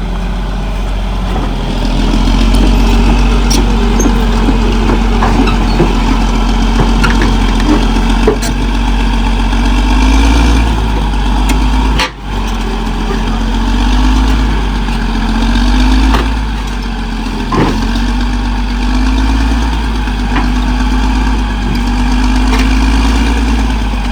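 CAT D6R XL bulldozer's diesel engine running, its pitch rising and falling back every two to three seconds in the second half, with scattered sharp clanks. The sound drops out briefly about halfway through.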